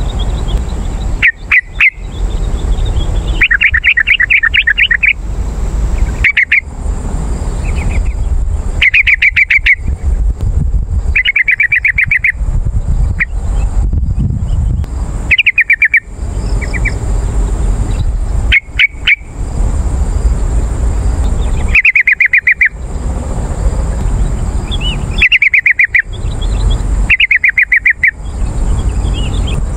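Yellow-vented bulbul song: short, bubbly chattering phrases repeated every second or two with brief abrupt breaks between them, over a steady low rumble.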